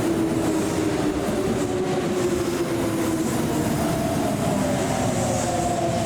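Kintetsu electric commuter train moving along the platform: a steady loud rumble of wheels and motors, with a motor whine whose pitch slides slowly lower in the second half.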